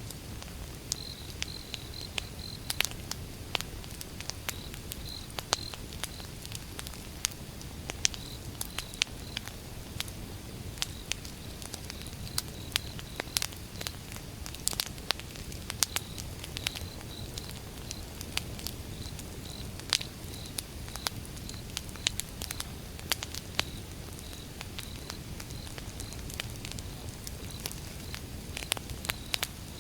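Wood fire burning: firewood crackling with frequent sharp pops at irregular intervals over a low, steady rumble of flames.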